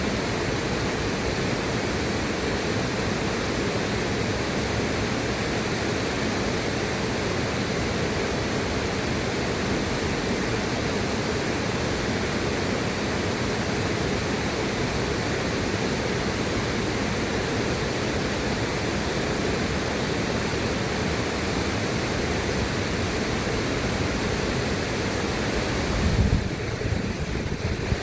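River water rushing in a steady, even stream; about two seconds before the end there is a brief, deeper surge and the hiss thins out for a moment.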